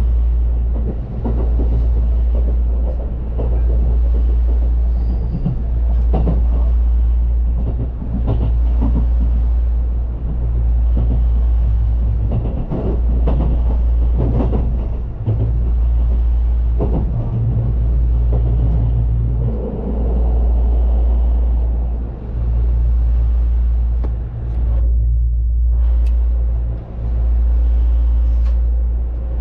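Train running, a steady low rumble that swells and dips about every two seconds, with clattering noise over it.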